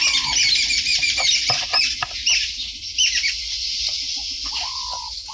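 Birds chirping and twittering in quick, overlapping calls. A held call drops in pitch at its end twice: once at the start and again near the end.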